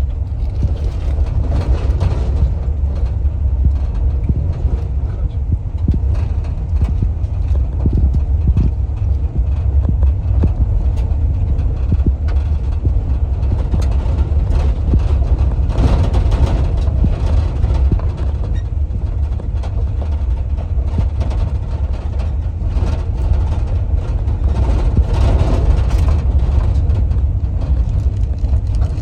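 Vehicle driving, heard from inside the cabin: a steady low road-and-engine rumble with scattered small knocks and rattles.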